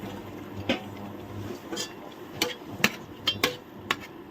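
A kitchen utensil knocking and clinking against a cooking pan, about seven sharp strikes at uneven intervals, as paneer is added and stirred into the masala.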